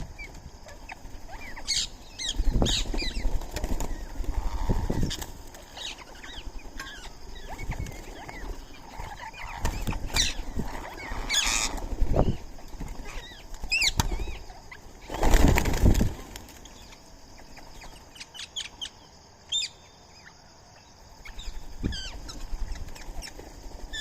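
Birds at a feeding spot calling with many short chirps, with several bursts of wing flapping as birds fly in and out, the loudest about two-thirds in.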